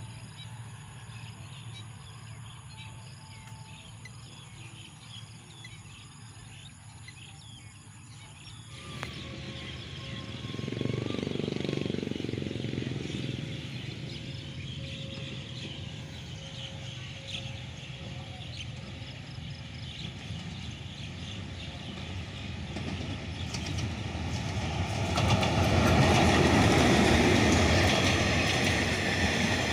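A diesel locomotive hauling stainless-steel passenger coaches passes close by. Its engine and wheels build up and are loudest in the last few seconds. Before that, quieter outdoor sound with birds chirping.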